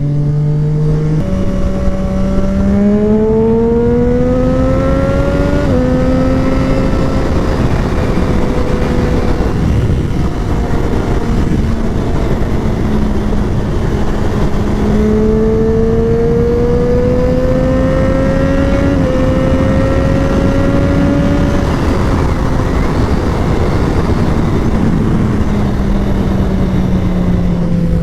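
Sport motorcycle engine under way at highway speed, its note climbing under acceleration over the first few seconds and again from about halfway, each climb ending in a small drop as a gear is shifted, then falling away over the last few seconds as the bike slows. Heavy wind and road noise run underneath.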